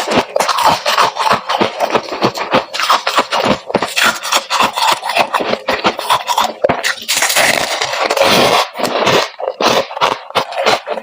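Freezer frost being crunched and chewed close to the microphone: rapid, loud, crackly crunches coming several a second.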